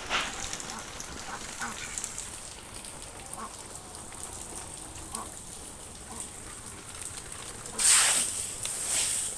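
Rain falling steadily, with two louder short noisy bursts near the end.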